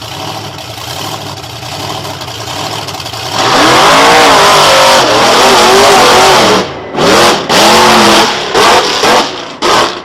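Monster truck engine revving hard, its pitch rising and falling, then a series of short throttle blips that cut off sharply near the end.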